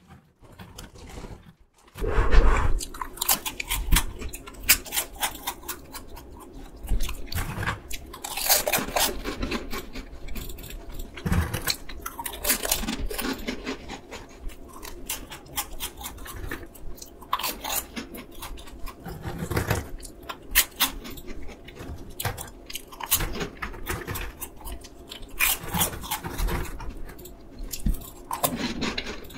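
A person chewing a mouthful of crunchy peanut caramel corn puffs (No Brand peanut caramel corn), with dense crisp crunching that starts about two seconds in and goes on in uneven bouts.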